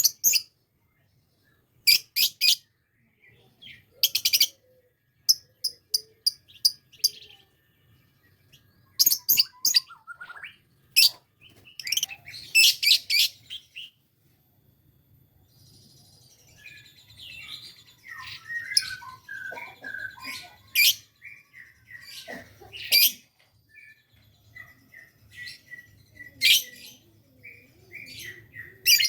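Lovebird calling: loud, shrill chirps in quick clusters, then from about halfway a softer, almost continuous run of fast chattering notes with sharp chirps breaking in. It is a young lovebird practising its 'ngekek', the long chattering trill.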